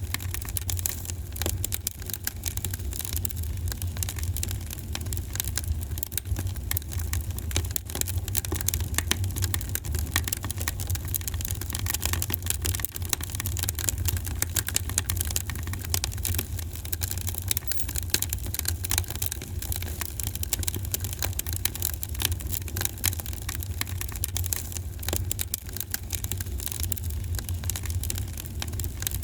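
Wood fire crackling in a fireplace: a dense, steady run of small pops and snaps over a low rumble.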